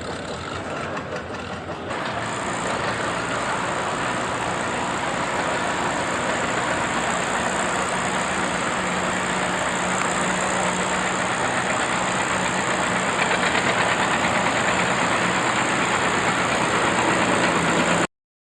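Vintage tractor engine running steadily, stepping up about two seconds in and then growing slowly louder, before cutting off abruptly near the end.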